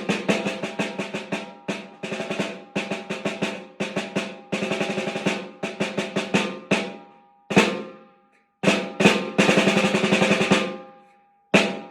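A beginner's snare drum solo: quick runs of strokes and two sustained rolls, with a single accented hit ringing out about seven and a half seconds in and two short rests.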